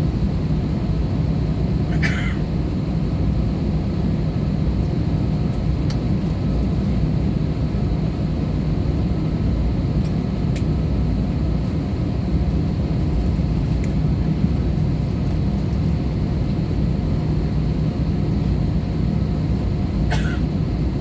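Steady cabin drone of an Airbus A320-214 in flight, its CFM56-5B engines and airflow heard from inside the cabin, with a low steady hum. Two short high squeaks, one about two seconds in and one near the end, rise briefly above the drone.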